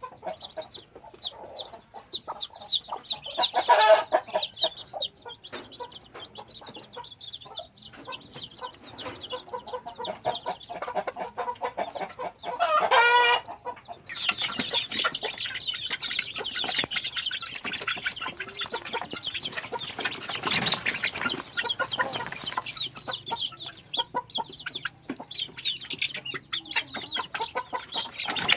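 A flock of chickens clucking and calling, with one loud, drawn-out call about 13 seconds in; the calling grows busier and denser in the second half.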